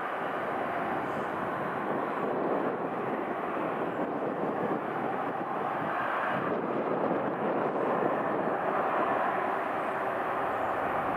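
Jet airliner engines running at taxi power: a steady, continuous rush that swells slightly about six seconds in.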